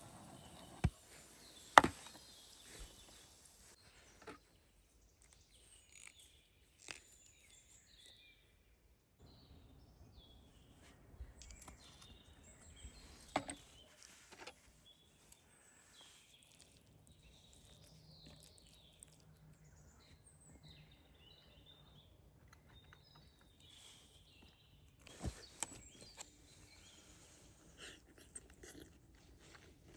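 Quiet outdoor ambience with small birds chirping on and off, and a few sharp clicks or knocks, the two loudest about one and two seconds in.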